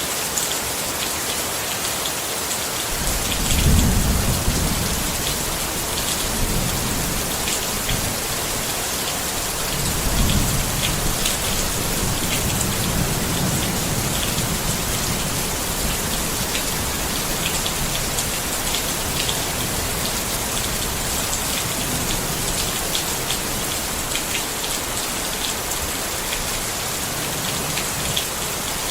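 Steady rain falling on a tent, with many individual drop ticks over an even hiss. Thunder rumbles in low, swelling about three seconds in and again about ten seconds in, then rolling on quietly.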